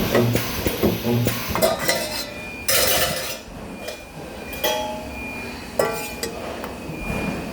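Metal parts clinking and clanking against each other, with short ringing tones after some knocks and a brief hiss about three seconds in.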